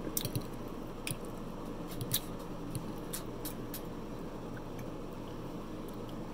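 Close-up chewing of soft food, mashed potatoes and Salisbury steak, with a run of sharp wet mouth clicks and smacks in the first few seconds that thin out after, over a steady low hum.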